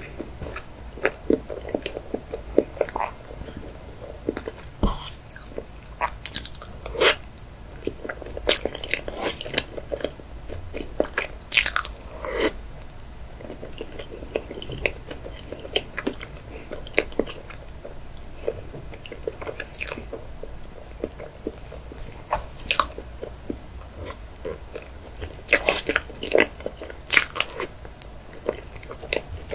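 Close-miked eating sounds of a person chewing layered chocolate cake, with many sharp, irregular mouth clicks.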